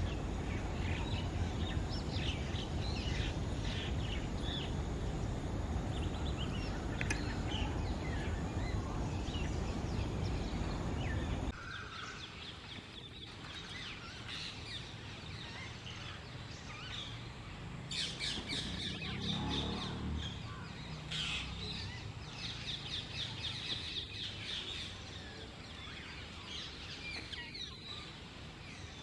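Birds calling, many short high chirps and calls, thickest in repeated runs past the middle, over a steady low rumble of background noise that drops away abruptly about a third of the way through.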